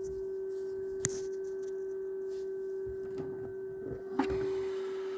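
A steady electric hum at one clear pitch. A sharp click comes about a second in, and light handling knocks and rustles start at about three seconds.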